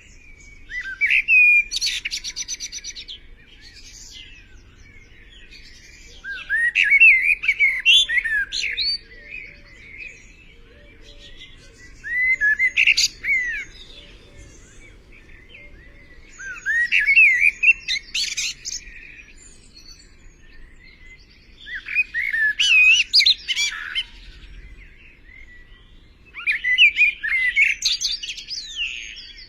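A songbird singing: six varied, warbling song phrases of about two seconds each, repeated every five seconds or so, with short pauses between.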